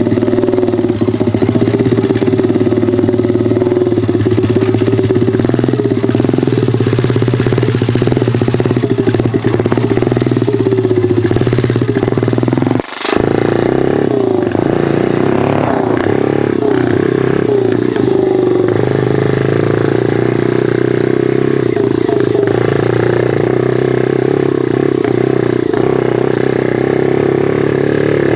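Pit bike engine running steadily, its pitch rising and falling a little with the throttle, with a brief break about 13 seconds in.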